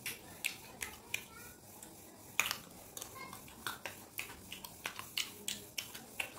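Close-up chewing of crisp raw green mango: a string of sharp, irregular crunches and wet mouth clicks, a few each second.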